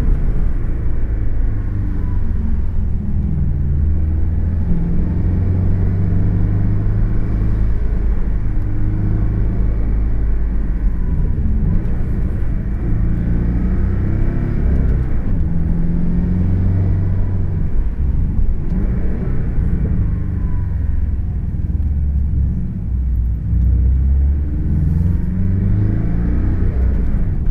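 A Porsche sports car's engine and road noise heard from inside the cabin while it is driven hard up a twisting mountain road. The engine note keeps rising and falling with throttle and gear changes, with a few brief dips.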